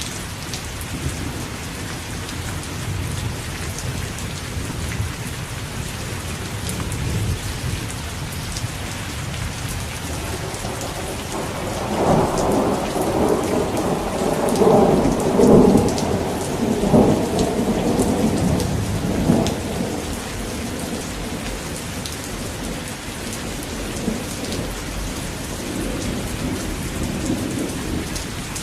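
Steady rain falling, with a long roll of thunder rising about twelve seconds in and rumbling for roughly eight seconds before fading back under the rain.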